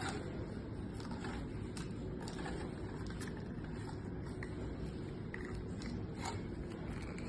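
Faint, irregular clicks and scraping of the plastic spiral core strip being pulled out of a cold shrink end cap as the rubber tube contracts onto the cable, over a steady low background hum.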